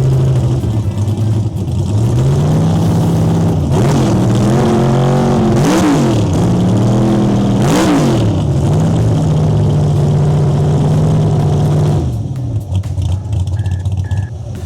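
A drag race car's engine at a steady fast idle, revved sharply twice about six and eight seconds in, settling back each time, then falling away near the end.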